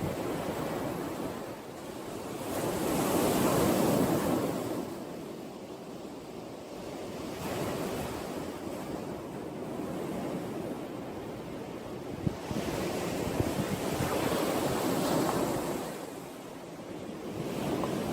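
Sea waves breaking on the shore and washing back, the surf swelling and fading every few seconds, loudest about three to four seconds in.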